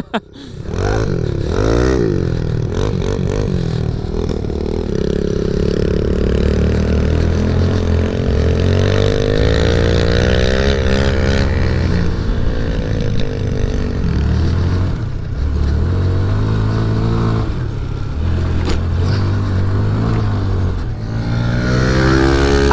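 Mini bike's small single-cylinder engine running under hard throttle, its pitch rising and dropping again and again as it revs and backs off.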